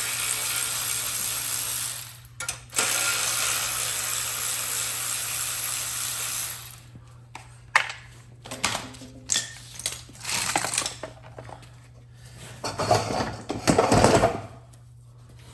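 Power tool running in two long steady bursts with a short break between them, followed by metal parts clinking and knocking as they are handled.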